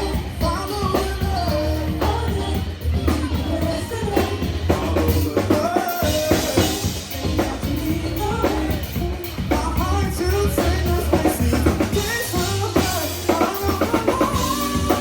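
Live band playing a song: drum kit and bass keeping a steady beat under a sung melody, with a long held note near the end.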